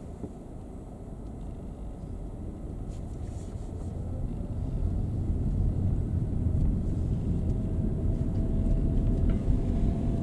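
Road and engine noise inside a moving car, growing louder as it picks up speed, with a faint whine that rises and then holds steady in the second half.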